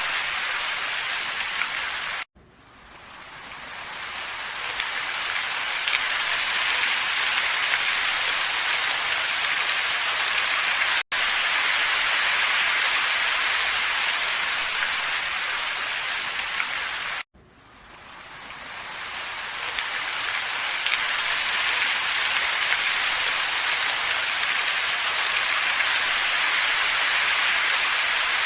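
Steady hissing ambient soundtrack of a wind-and-snowfall relaxation loop, with no distinct events. It cuts out abruptly about two seconds in and again later, each time fading back in over a few seconds, with a very brief dropout in between.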